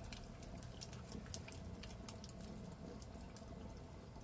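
Faint water dripping and bubbling in a fish tank aerated by an air stone, with scattered small drips over a low steady hum.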